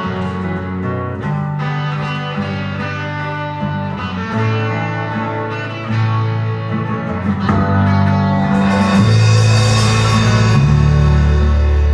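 Live band playing the instrumental intro of a slow ballad: guitar chords over a bass line that moves to a new note every second or two. The sound grows fuller and louder about nine seconds in.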